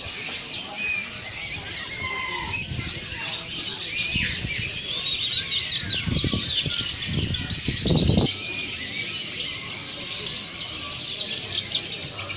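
Dense chorus of many caged songbirds chirping and calling at once, with no pause. A few low rumbles come in between about six and eight seconds in.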